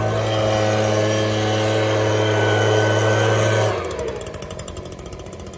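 Leaf blower running steadily at full power, then shut off about three and a half seconds in and winding down with a fading flutter.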